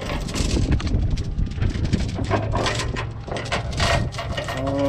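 Heavy steel tie-down chain clanking and rattling in irregular knocks as it is handled and worked loose, over a steady low hum.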